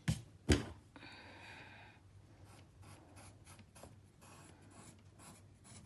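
Faint pencil strokes scratching on paper while a shape is sketched: two sharper taps at the start, a longer stroke about a second in, then a run of short light strokes.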